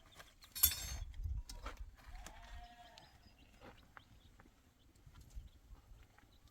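A farm animal's short bleat about two seconds in, following a brief loud knock just under a second in, over a low rumble.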